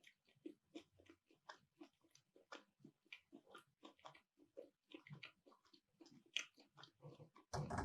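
Close-miked chewing of a baked keto piroshok: soft, irregular mouth clicks and smacks a few times a second, with a louder burst near the end.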